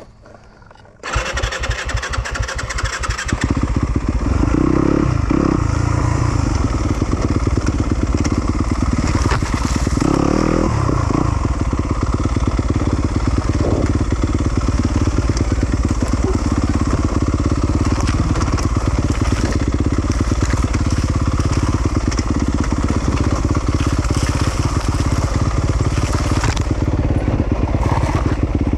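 A 2020 Yamaha YZ250FX's 250 cc four-stroke single-cylinder dirt-bike engine, coming in suddenly about a second in and then running and revving, with its pitch rising and falling now and then.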